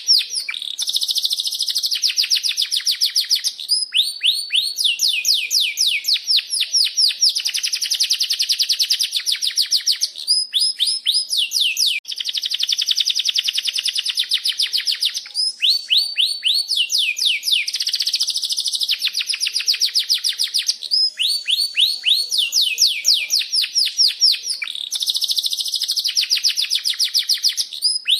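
Domestic canary singing a long, unbroken song: runs of rapid falling chirps alternating with fast rolling trills.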